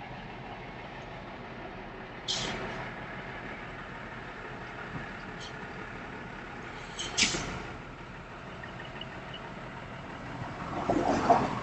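Heavy truck running steadily, with two short, sharp hissing bursts about five seconds apart and a louder surge of sound near the end.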